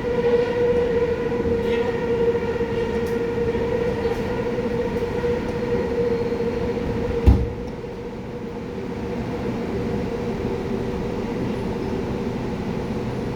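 Busan Metro Line 1 subway train running, with a steady motor whine over rumbling rail noise. A single sharp knock comes about seven seconds in, after which the whine fades and the running noise is quieter for a few seconds before building again.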